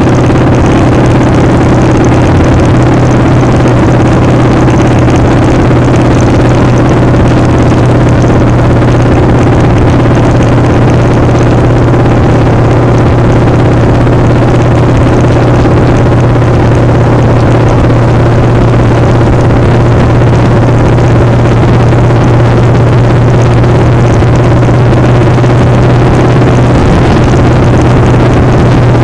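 Motorcycle engine running steadily at an unchanging pitch, with heavy wind noise rushing over it.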